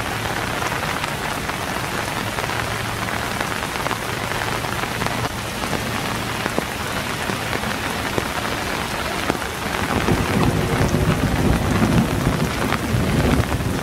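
Steady rain falling, mixed with the rush of a swollen creek running under a footbridge. From about ten seconds in, a low rumble of distant thunder builds beneath it.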